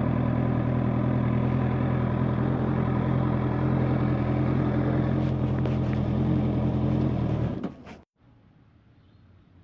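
Honda motorcycle engine running at a steady cruising speed. It cuts off abruptly about three-quarters of the way in, leaving only a faint hiss.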